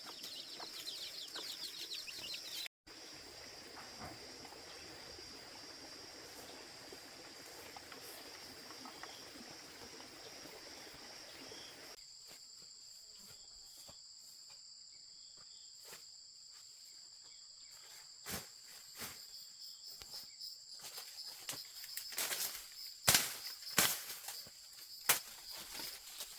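Insects droning steadily at a high pitch, with a faint regular pulsing. In the last several seconds a series of sharp knocks and clicks sounds over it.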